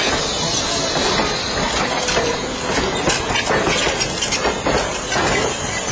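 Railroad passenger coaches rolling past close by: a steady loud rumble of steel wheels on the rails with irregular clicks from the rail joints.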